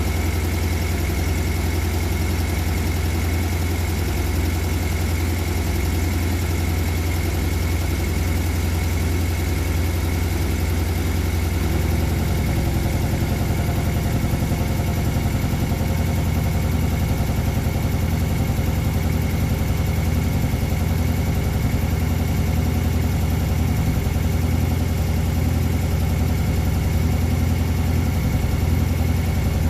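Porsche 718 Boxster S's turbocharged flat-four idling steadily after a cold start, with the exhaust in Sport mode. The idle note shifts slightly about twelve seconds in.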